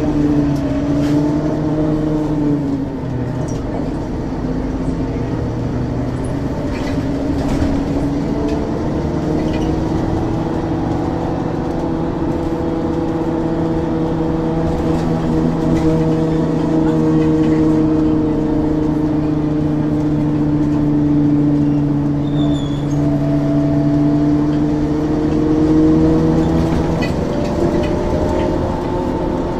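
Ikarus 435 articulated bus's diesel engine and ZF automatic gearbox running under way, a steady drone whose pitch sags about three seconds in, picks up again and eases down and back up near the end. A few faint clicks or rattles sit on top.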